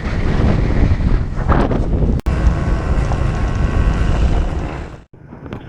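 Heavy wind buffeting the microphone over a running dirt bike engine. The sound breaks off abruptly about two seconds in, then again near the end.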